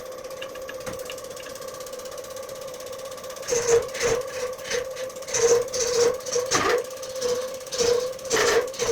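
A woodturning lathe running with a steady hum. From about three and a half seconds in, a tool scrapes against the spinning work in short, irregular strokes.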